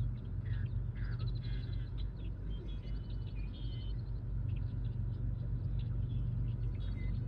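Birds chirping in many short, high calls, scattered through the whole stretch, over a steady low rumble.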